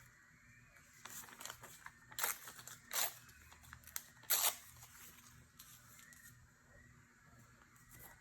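Paper being handled on a journal page: rustling and crackling, with three louder scratchy rasps about two, three and four and a half seconds in.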